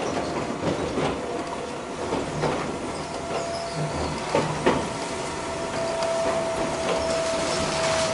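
Electric train running on jointed track as it slows into a station, with irregular clacks from the wheels and rail joints. About five seconds in, a steady whine from the train grows louder and then sags slightly in pitch near the end.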